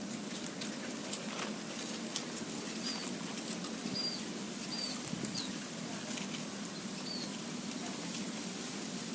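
A small bird giving about five short, high chirps spread over a few seconds, over a steady low background hum with scattered faint clicks.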